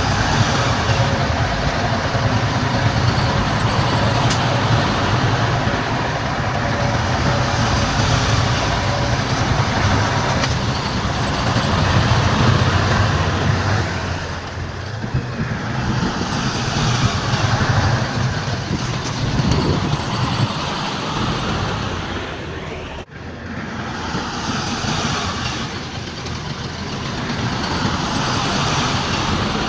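Heavy diesel earthmoving machinery running: a deep engine rumble, strongest in the first half, gives way to a broader, more even mechanical noise. The sound drops out sharply for an instant about 23 seconds in.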